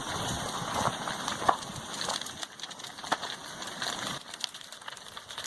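Lava flow overrunning a house, crackling and crunching with irregular sharp snaps over a rushing noise that thins out after about four seconds.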